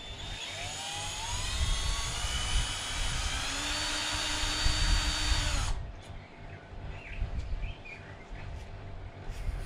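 Power drill spinning up with a rising whine, then running steadily for a few seconds before stopping suddenly, as it bites into a broken-off bolt in a Jeep's wheel hub. The bit is wandering off centre.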